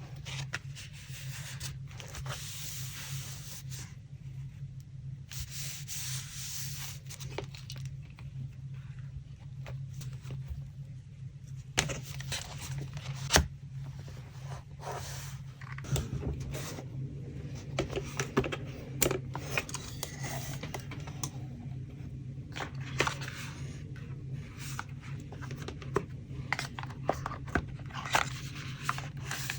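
Paper being torn and rubbed in long rustling strokes, then handled with scattered sharp taps and clicks in the second half. A steady low hum sits underneath.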